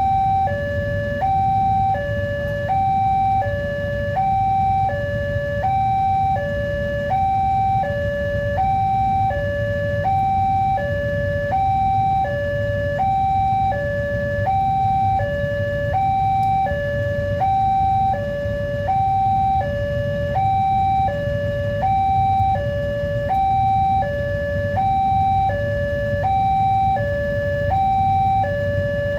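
Railway level-crossing warning alarm sounding steadily, an electronic two-tone 'teng-tong' alternating evenly between a higher and a lower note, about one pair every 1.3 seconds, over a steady low rumble.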